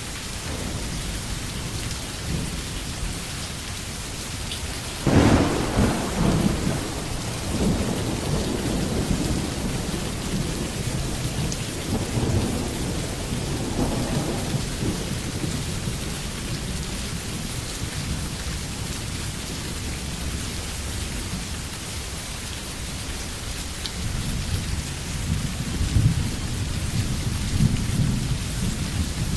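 Steady heavy rain in a thunderstorm. About five seconds in, a sudden thunderclap breaks into a deep rumble that rolls on for several seconds, and a second low rumble swells near the end.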